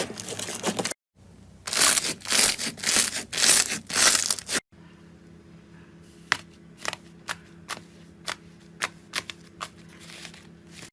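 Slime being squeezed and pressed by hand, crunching and crackling in loud bursts. After an abrupt cut a quieter clip follows: single sharp pops and clicks about every half second over a faint steady hum.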